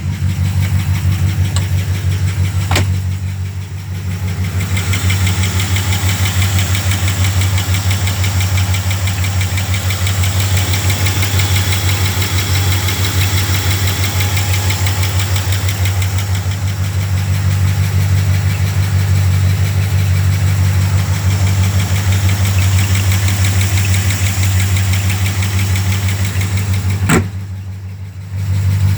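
1973 Rolls-Royce Silver Shadow's 6.75-litre V8 idling steadily with an even pulse shortly after a cold start. There is a sharp click about three seconds in and another near the end, after which the engine briefly sounds quieter.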